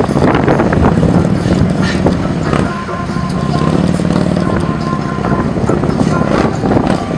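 Motorcycle engine running, its pitch rising and falling as the throttle changes, with music playing.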